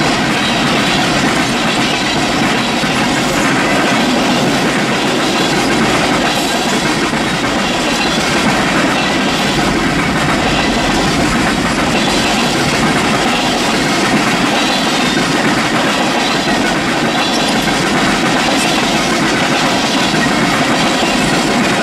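Freight cars (tank cars and covered hoppers) rolling past close by: a steady, loud rolling noise of steel wheels on the rails that stays even throughout.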